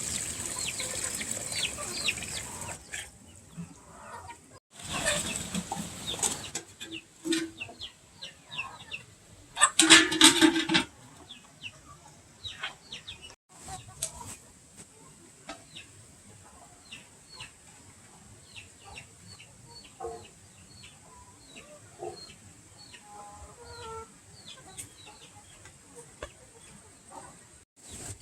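Chickens calling: many short, high calls and some lower clucks. A rushing hiss fills the first few seconds and returns briefly, and a loud noisy burst lasting about a second comes about ten seconds in.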